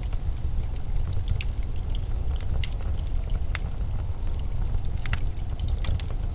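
Steady low rumble of blizzard wind, with scattered sharp crackles and ticks over it.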